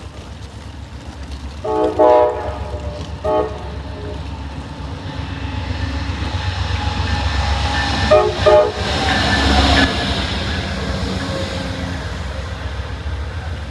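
CSX freight train's diesel locomotive sounding its horn: a blast about two seconds in, a short one just after, and two quick toots about eight seconds in, over the rumble and clatter of the train, which grows louder as it passes close.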